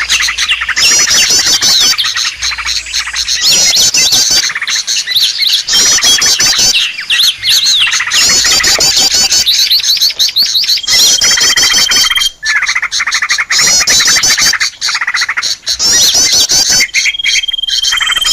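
Small songbirds chirping and trilling densely and without pause, in loud bursts of rapid, high chirps every second or two, with a held whistle note twice in the second half. It is a lure call recording for small birds, used to draw them in for catching.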